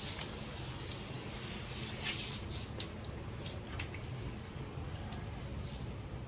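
Water running steadily, with faint drips and splashes, as when plants are watered.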